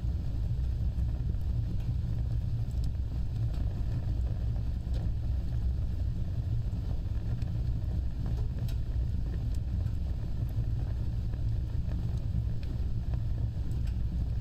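Wood fire burning with a steady low rumbling rush of flames and scattered faint crackles.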